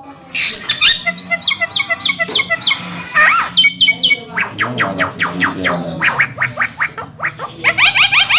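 Javan myna singing its chattering song: a rapid string of repeated, sweeping whistled notes, breaking into a faster, denser run near the end.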